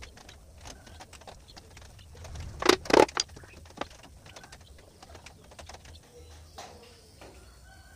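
Scattered light taps and clicks, with a brief cluster of loud knocks about three seconds in.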